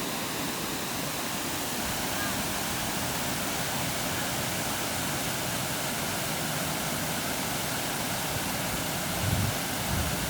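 Steady rush of flowing water, an even hiss without let-up, with a few brief low thumps near the end.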